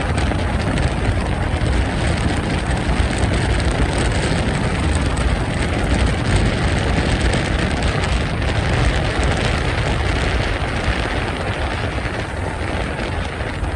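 Steady wind buffeting on the microphone of a moving motorbike, with road and traffic noise underneath, as it rides through city streets.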